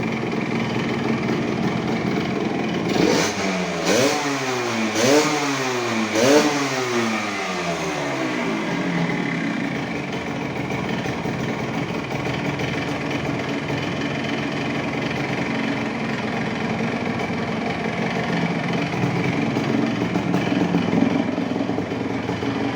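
1977 Yamaha DT 100's single-cylinder two-stroke engine idling, blipped four times in quick succession about three seconds in, each rev rising and falling back, then settling to a steady idle. The restored engine is taking the throttle cleanly, with no faults.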